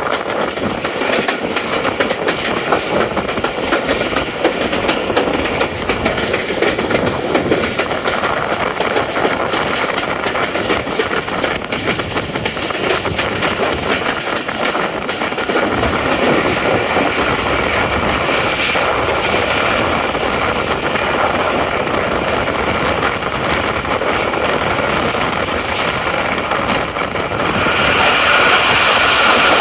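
Tezgam Express passenger train running, its wheels clattering over the rail joints under a steady rush of running noise; the sound grows louder and higher near the end.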